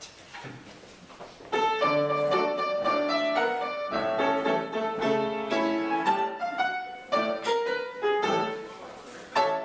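Piano playing the introduction to a 1906 vaudeville comedy song, coming in about a second and a half in after a brief quiet moment.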